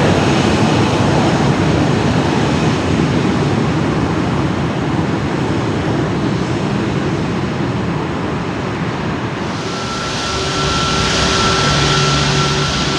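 Boeing 737 airliner's CFM56 jet engines on a landing pass, a loud, steady rumble with hiss. About ten seconds in, the sound changes abruptly to a brighter hiss with a steady high whine.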